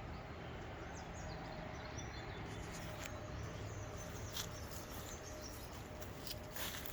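Faint outdoor ambience: a steady low background hiss with a few faint high chirps and an occasional light click.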